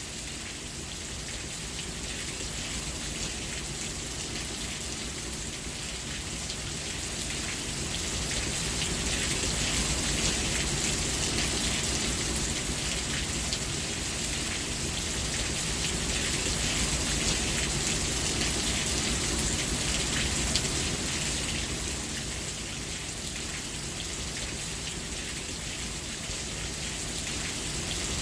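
Steady rain falling, a dense hiss of many small drop ticks over a low rumble, swelling gently and easing again.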